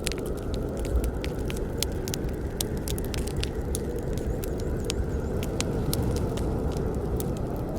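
Campfire burning: a steady low rush of flames with many sharp, irregular crackles and pops of burning wood.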